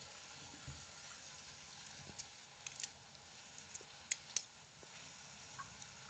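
Breaded chicken pieces frying in a pan of oil: a faint steady sizzle, with a few sharp clicks and pops, the loudest two just after four seconds in.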